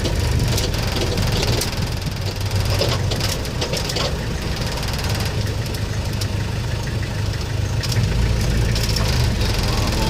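Safari jeep's engine idling steadily with an even, fast pulse, and a few light clicks over it.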